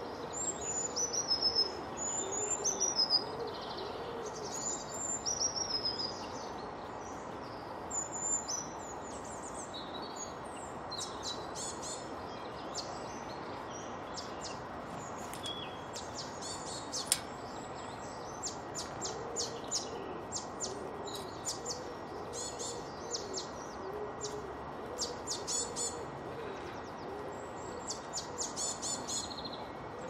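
Garden birds singing and calling: high whistled phrases that fall in pitch in the first few seconds, then many quick, bright chirps and twitters. Low cooing sounds underneath near the start and again in the second half, over steady background noise.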